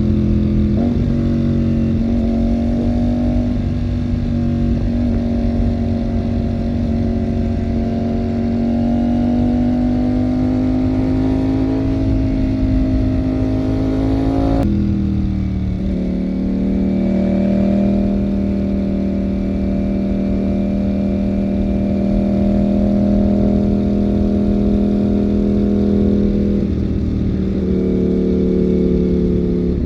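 Ducati Panigale V4 motorcycle's V4 engine pulling under way, its pitch rising slowly. About halfway the pitch drops suddenly as it shifts up a gear, then it runs steady at lower revs, easing down a little near the end.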